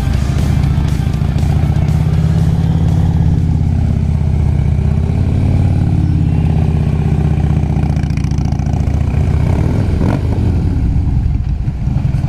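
Harley-Davidson V-twin motorcycle engine running at low speed under light throttle. The pitch dips around four to five seconds in, then picks back up.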